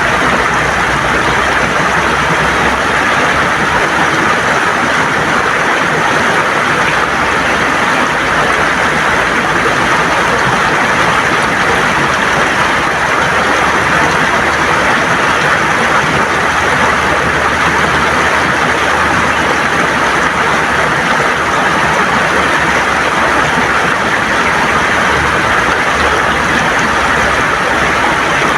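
River water gurgling and rushing over stones in a loud, steady, even flow.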